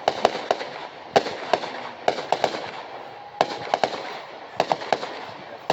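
Fireworks going off: an irregular string of sharp bangs and cracks, about three a second, over a steady crackling hiss.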